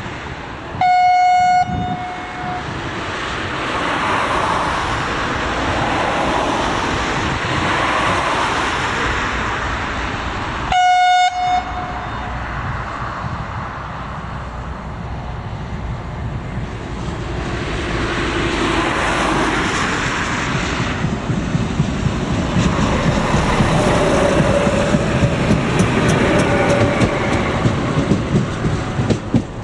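Two short, single-note horn blasts about ten seconds apart from a Czech ČD class 841 RegioSpider diesel railcar, sounded as it nears an unguarded level crossing. The train's rumble then grows louder, with a rapid clatter of wheels on the rails building near the end.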